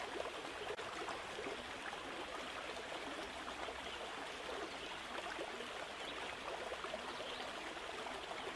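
Steady sound of running water, like a small stream flowing.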